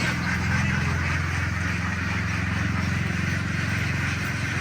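Truck engine idling steadily, with a flock of ducks quacking over it.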